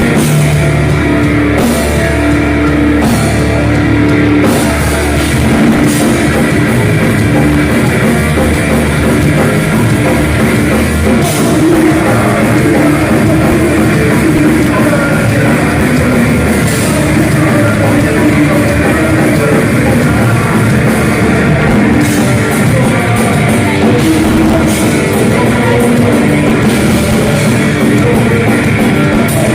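Heavy metal band playing live: distorted electric guitars and a drum kit, loud and continuous.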